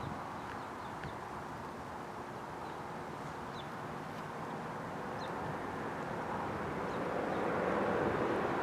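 Rural outdoor ambience: a steady rushing noise with a few faint bird chirps. The rushing grows louder over the last few seconds.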